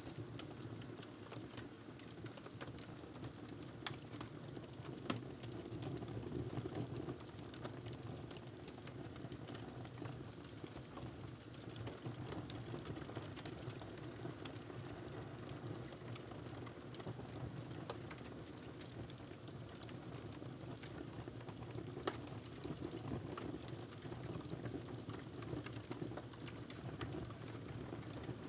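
Wood fire crackling in a fireplace: a steady low rush with many small scattered snaps and a few sharper pops.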